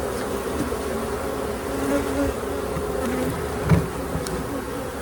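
Honeybee colony buzzing steadily in a hum, with a single knock about four seconds in.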